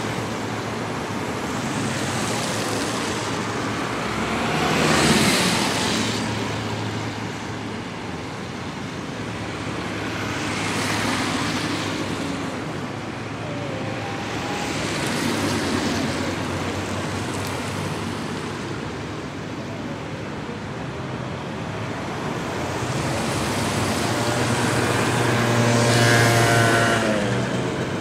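Continuous road traffic: a steady bed of tyre and engine noise with vehicles passing one after another. The loudest pass-bys come about five seconds in and near the end, the last with a clear engine note that drops in pitch as it goes by.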